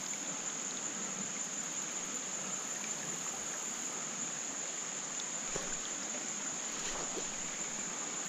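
Insects chirring in one steady high-pitched tone over the rush of creek water, running high and fast with fresh rain runoff.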